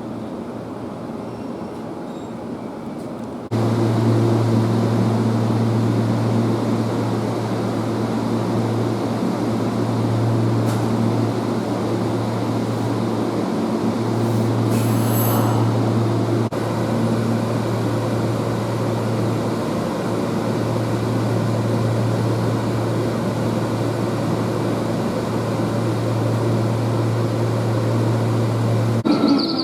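Seibu 6000-series electric commuter train with a steady low hum and running noise, carried across several edited shots with abrupt changes in the sound about 3.5 s in, about 16.5 s in and near the end.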